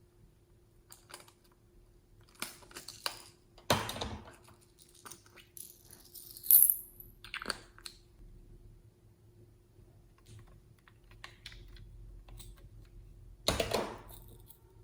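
Scattered clicks and short rattles of small hard plastic items being handled, with the sharpest, loudest click about six and a half seconds in and a longer rattle near the end.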